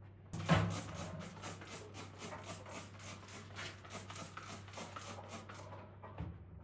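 Scissors snipping: a sharp knock, then a rapid, even run of short crisp cuts, about four or five a second, lasting some five seconds.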